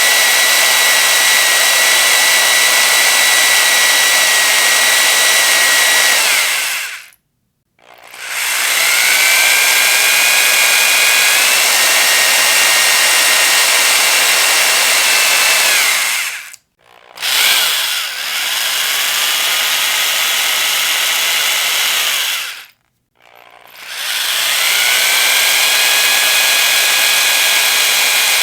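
Electric power drill running in long bursts, its motor whine holding steady at full speed. It stops briefly three times, the whine falling away before each stop and rising again as the motor spins back up.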